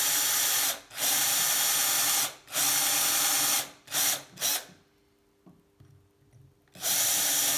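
Electric drill boring pilot holes in a bicycle seat post, run in a string of trigger bursts. Three long runs of a second or more come first, then two short blips about four seconds in, a pause, and one more run near the end.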